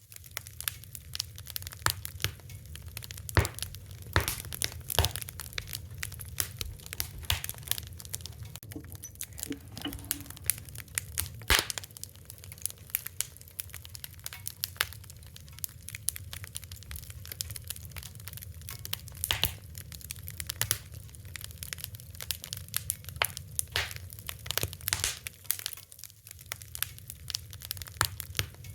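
Wood fire crackling and popping, with irregular sharp snaps over a steady low rumble of the flames.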